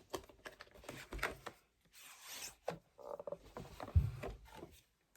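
Handling and opening a boxed album package by hand: packaging rubbing and scraping, with irregular clicks, a brief rustle about two seconds in and a thud about four seconds in.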